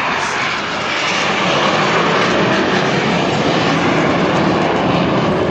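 BAE Hawk T1 jets of the Red Arrows passing overhead: a steady rush of jet engine noise that grows louder about a second in and stays loud.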